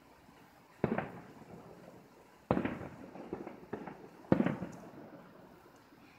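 Aerial firework shells bursting: three bangs about a second and three quarters apart, each trailing off over a second or so, with a couple of smaller pops between the second and third.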